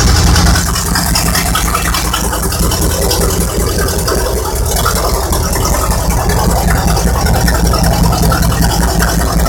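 V8 engine in a riding lawn mower, running steadily at idle.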